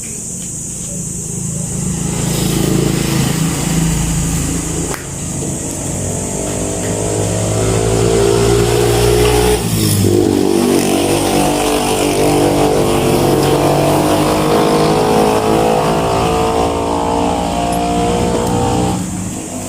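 A motor running loudly, its pitch drifting up and down; it grows louder about two seconds in and falls away just before the end.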